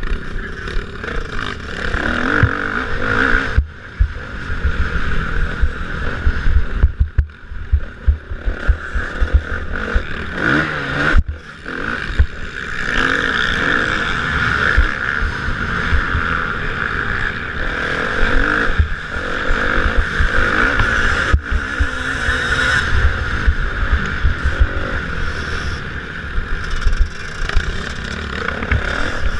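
Motocross bikes racing, their engines revving hard and rising and falling in pitch as riders work the throttle, with a few brief drops in the engine note.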